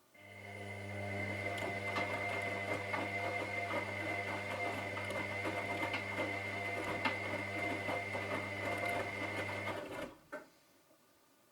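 Washing machine drum motor starting up and turning the drum for about ten seconds, a low hum with a steady high whine and the tumbling load knocking irregularly, then cutting off sharply, with a click just after it stops: the stop-start turning of a wash cycle.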